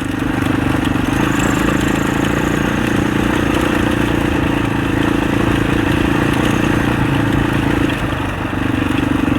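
Husaberg 650 single-cylinder four-stroke enduro engine running at steady throttle under way, easing off briefly about eight seconds in and then pulling again.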